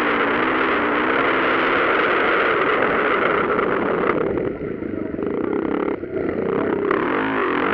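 Motocross dirt bikes racing, their engines revving up and falling back, loud and distorted on the microphone. The sound drops about four and a half seconds in and picks up again near seven seconds.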